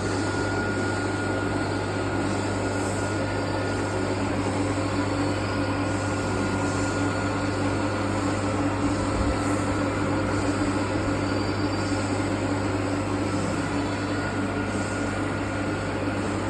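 Metal lathe running steadily with a constant hum and a few held tones.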